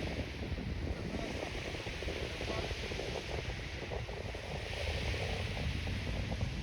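Wind buffeting the microphone with a low, uneven rumble over a steady outdoor hiss.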